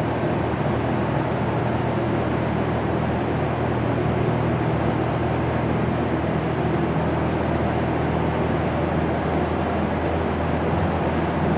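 Steady mechanical drone with a low, constant hum, unchanging in pitch and level, typical of a motor or engine running.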